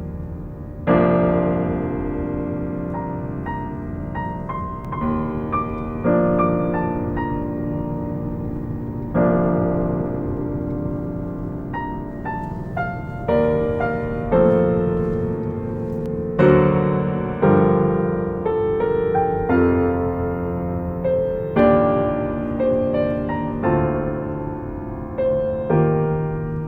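Background piano music: slow chords and melody notes, each struck and left to ring and fade.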